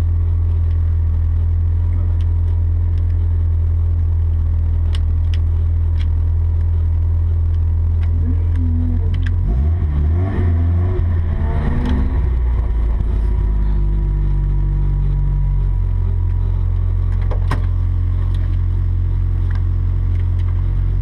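Volvo 240 rally car's engine idling steadily, heard from inside the stripped cabin, with the revs rising and falling for a couple of seconds about ten seconds in as the car moves up, then settling back to a steady run. A few sharp clicks sound from the cabin.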